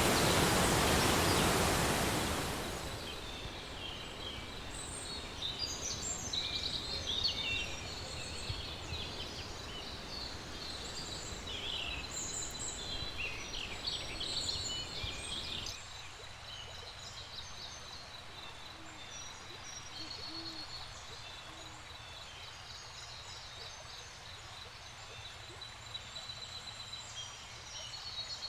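A loud rushing noise dies away over the first couple of seconds, leaving wild birds chirping and calling busily. About halfway through it grows quieter, with a steady high tone and a few faint, low hoots.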